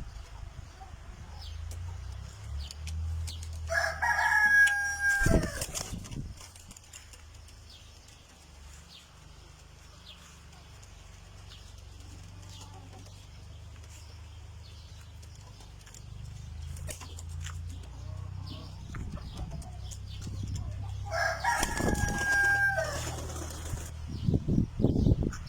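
A rooster crowing twice, once about four seconds in and again near the end, each crow a held call of about two seconds, over a low steady hum.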